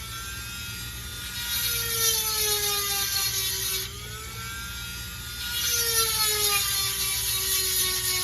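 Dremel rotary tool with a 7/32-inch grinding stone sharpening chainsaw chain cutters: a high steady motor whine, twice joined by a grinding hiss as the stone bites the tooth, the pitch sagging under load and recovering between passes.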